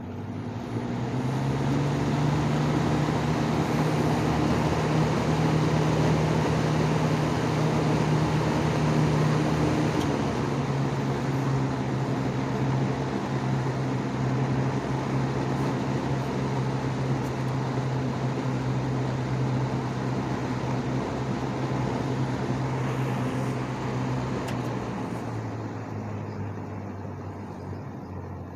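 1970s Lakewood 20-inch box fan starting up on high speed: the motor hum and air rush come up within the first second or two, then run steadily. The hum drops a little in pitch about ten seconds in, and the sound eases off somewhat near the end.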